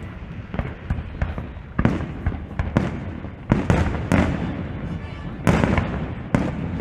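Fireworks going off: a string of bangs at uneven intervals, with the loudest about halfway through and near the end, over a continuous rumble of more distant bursts.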